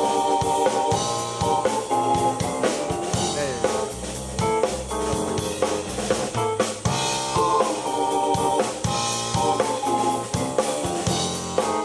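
Live keyboard and drum-kit duo playing a rock jam: a drum beat with snare and kick under sustained keyboard chords and melody lines.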